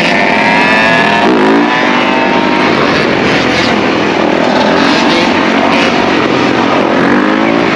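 Several dirt bike and ATV engines running together, revving in rising sweeps about a second and a half in and again near the end.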